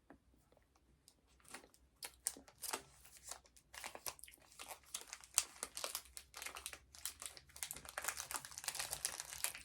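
Crinkling and tearing of a chocolate bar's wrapper being unwrapped by hand. It starts in scattered crackles and grows into a denser, louder crinkle toward the end.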